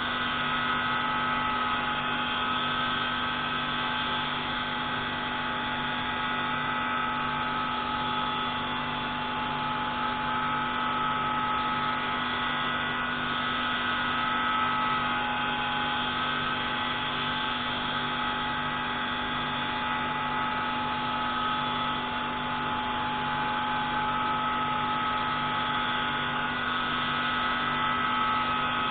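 Pneumatic grinding tool running steadily while grinding a marine diesel engine's intake valve: a continuous machine whine of several fixed tones over a low hum, with no change in speed.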